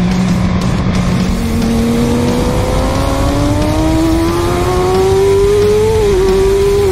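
Sport bike engine accelerating hard on a race track, its pitch climbing steadily for several seconds with a brief dip about six seconds in, under heavy wind rush on the bike-mounted camera.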